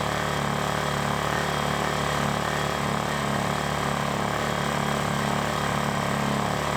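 Lifan ESI860i-CA 40cc inverter generator running steadily at full power, economy mode off, while charging a 12-volt car battery.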